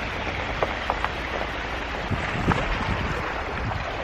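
Steady rush of water with scattered small splashes and drips.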